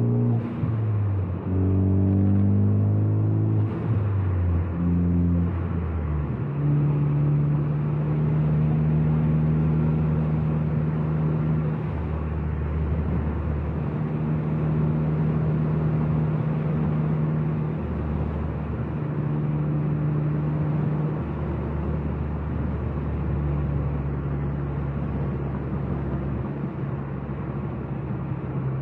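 Modified turbocharged Ford Focus ST, with catless downpipe and AWE Track exhaust, driving: the engine note steps through a few gear changes in the first six seconds, then holds a steady drone at cruise, with brief lifts off the throttle now and then.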